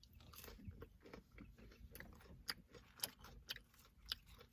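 Faint chewing of food close to the microphone, with a few soft crunches and mouth clicks spread unevenly.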